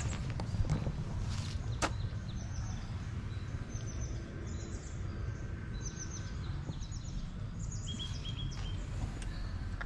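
Small birds chirping in short, repeated high calls over a steady low rumble, with a few sharp clicks, the strongest about two seconds in.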